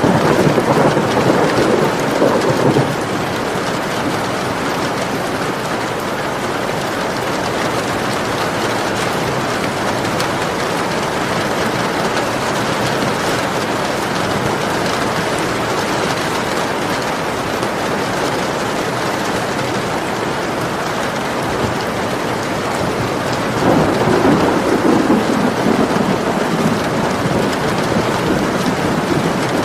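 Steady heavy rain with two rolls of thunder, one at the start lasting a few seconds and another about three-quarters of the way through that swells and fades.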